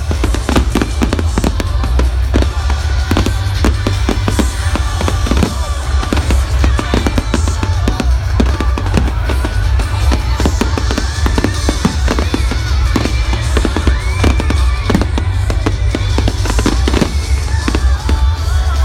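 Fireworks display going off in a rapid, continuous run of bangs and crackles, several reports a second, over music played along with the show.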